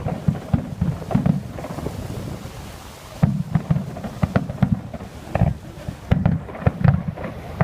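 Display fireworks bursting overhead in a rapid, irregular series of bangs, with a short lull about two seconds in.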